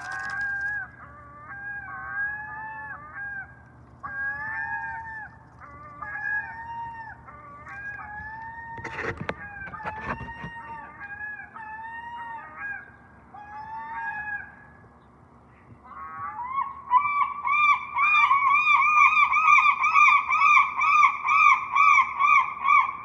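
Gulls calling in a chorus of repeated arched, yelping calls, with a brief knock about nine seconds in. After a short lull about two-thirds of the way through, a gull breaks into a loud, fast run of repeated calls.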